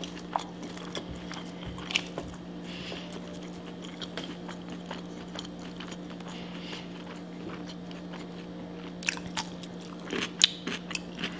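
Close-up mouth sounds of a person chewing food, with scattered small crunches and a run of sharper crunches near the end, over a steady low hum.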